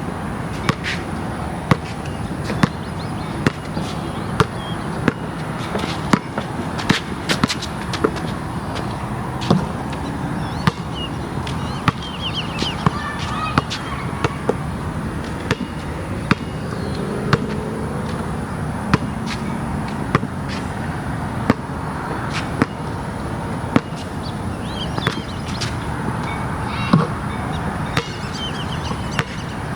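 Basketball being dribbled, bouncing sharply on the ground roughly once or twice a second, over a steady background hiss.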